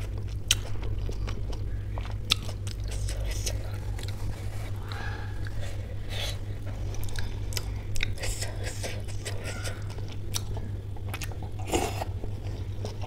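Close-miked chewing and biting of spicy samosa chaat with ghugni chickpea curry, eaten by hand, with scattered sharp wet mouth clicks and smacks. A steady low hum runs underneath.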